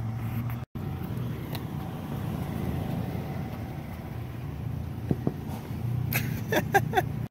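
Car engine running steadily at low revs, with a short stretch of voices near the end.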